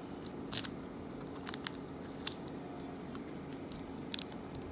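A dull knife cutting and scraping at a package's packing, making scattered sharp clicks and scratches.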